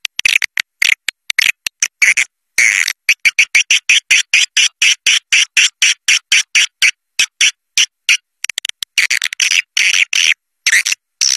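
Swiftlet lure call, the recording played at swiftlet houses to draw in flocks: rapid trains of short, high, buzzy chirps, about five a second, with dead silence between them and a brief pause a couple of seconds in.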